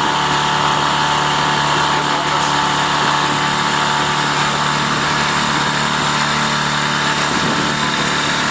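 A small boat's engine running steadily at an even speed, a constant hum with a hiss over it.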